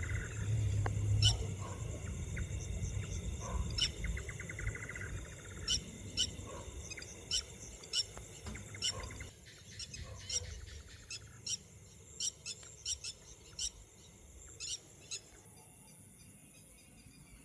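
A bird calling with a series of short, sharp, high notes, about one a second, with a brief rapid trill near the start and again about four seconds in. A low rumble underlies the first part and fades away.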